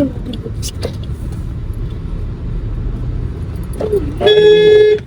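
Steady low rumble of a car's engine and tyres heard from inside the cabin while driving. Near the end a loud held high note lasts under a second.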